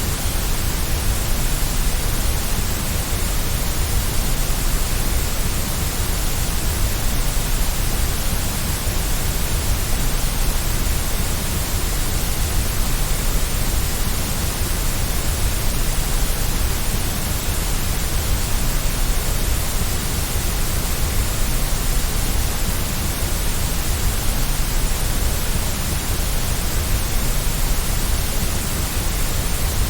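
Steady white noise for a baby's sleep, an even hiss that does not change.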